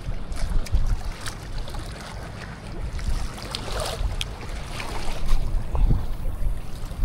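Strong wind buffeting the microphone in gusts, with a few small clicks and knocks.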